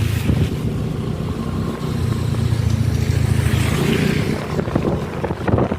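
Motor vehicle engine running steadily with road noise while driving along.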